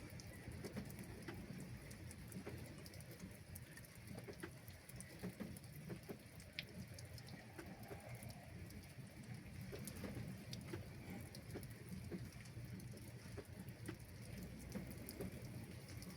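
Faint rain with scattered drops ticking irregularly.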